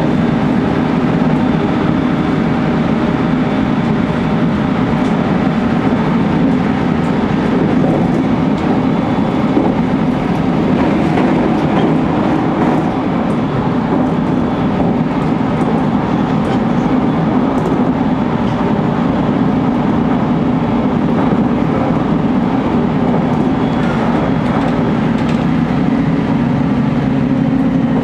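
JR Kyushu 813 series electric multiple unit running at about 100 km/h, heard from the driver's cab: a steady, loud rumble of wheels and running gear on the rails.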